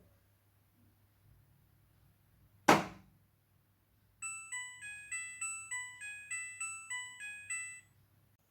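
Front-loading washing machine at the end of its cycle: one loud clunk about three seconds in, then the control panel plays its short end-of-cycle tune of about a dozen electronic beeps, signalling the wash is finished.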